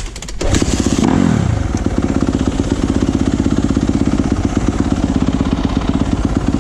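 2017 Yamaha YZ250F's single-cylinder four-stroke engine running loud: a clattery burst of high revs in the first second, the revs dropping sharply about a second in, then settling into a steady, fast, even beat.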